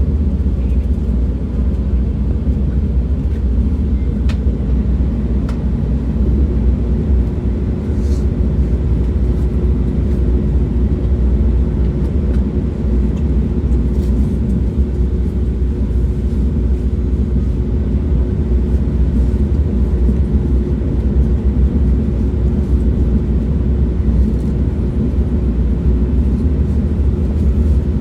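Train in motion: a steady low rumble of running gear on the track, with a faint steady hum joining a few seconds in and a few light clicks.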